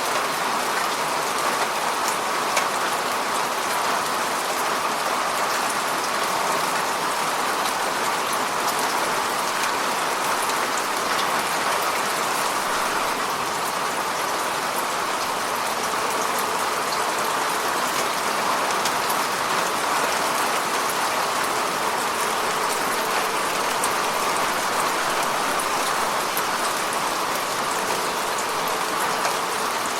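Heavy rain falling steadily, a continuous even hiss with fine scattered drop patter.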